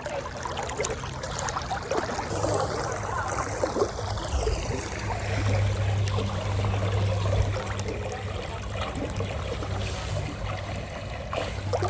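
A shallow stream of water running and trickling, with a steady low hum joining about two seconds in.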